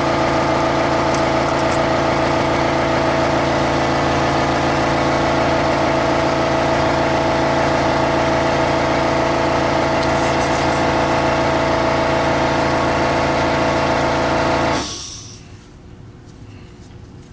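A small electric motor running steadily with a constant whine, then shutting off about fifteen seconds in.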